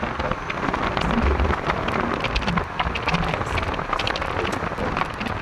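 Rain falling on a street: a dense, steady hiss with many sharp drop ticks, over a low rumble.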